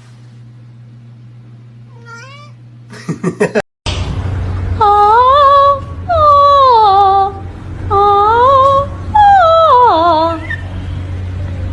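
A house cat meowing: one faint short meow, then four loud, long, drawn-out meows, each rising and falling in pitch.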